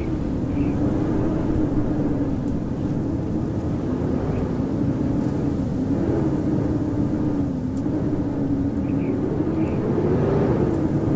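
Howling winter wind: a steady low rush with a howling note that wavers slowly up and down in pitch.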